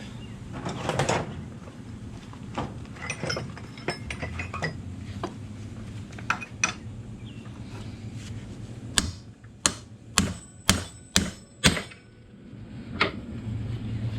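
Hammer blows on a steel drive shaft yoke, driving out a U-joint cap: seven sharp metallic strikes, most about two a second, beginning past the middle, after several seconds of light clinks and knocks of metal parts being handled.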